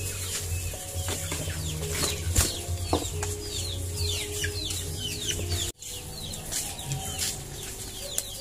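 Birds chirping in a rapid run of short calls, each falling in pitch, over a steady low hum. The sound drops out for an instant a little past halfway.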